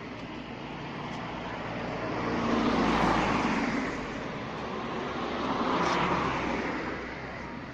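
Rushing running noise of a moving train, swelling loudly twice about three seconds apart.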